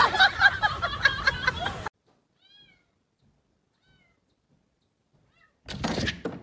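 A cat meowing repeatedly in short calls over background noise, then a lull with a few faint high chirps, then a sudden loud burst of noise near the end.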